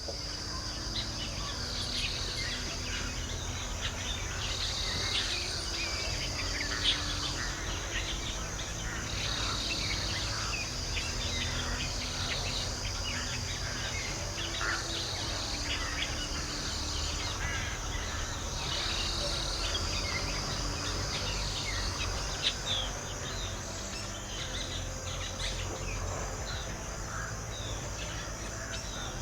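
A steady high-pitched insect chorus with a pulsing phrase that repeats every second or two, and short bird chirps and calls scattered through it. A low rumble runs underneath.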